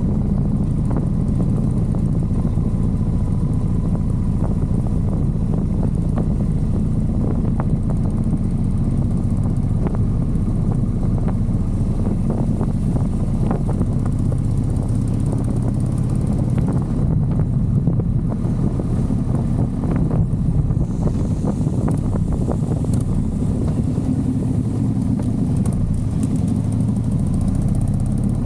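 Motorcycle engine running steadily while riding, at an even level with only small shifts in pitch.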